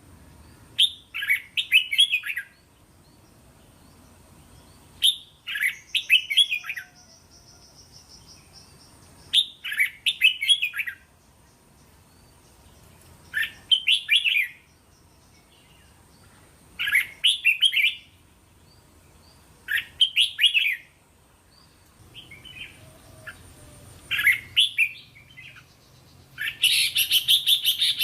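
Red-whiskered bulbul singing: short warbling phrases of a few syllables each, repeated about every three to four seconds, the last phrase near the end louder and longer than the rest.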